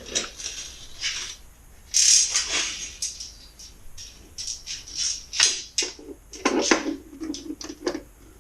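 Metal tools clattering and rattling in irregular knocks and scrapes, as when rummaging for a 1/2 inch socket or wrench. There is a longer scraping stretch about two seconds in and a run of quick knocks in the second half.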